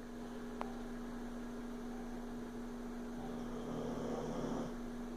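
A sleeping dog snoring in a human-like way, one drawn-out snore swelling about three and a half seconds in. Under it runs a steady electrical hum, with a single small click near the start.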